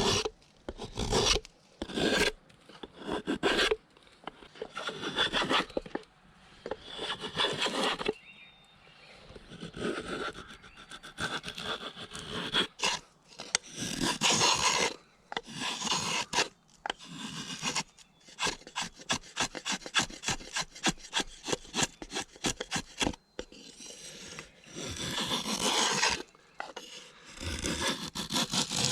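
Hand saw cutting through old bog oak in back-and-forth rasping strokes, with a run of quicker, shorter strokes past the middle.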